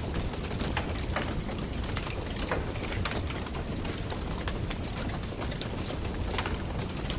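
Wood campfire burning, crackling with irregular sharp pops several times a second over a steady low rumble.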